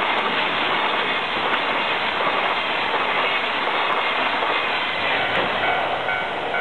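Train passing through a level crossing: steady, even rolling noise of wheels on rail. Near the end, as the last cars clear, the crossing bell's repeating ding comes through, a little over two strikes a second.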